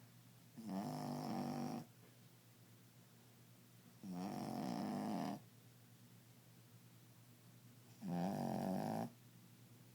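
Dog snoring loudly: three long snores, each about a second long, coming about every four seconds.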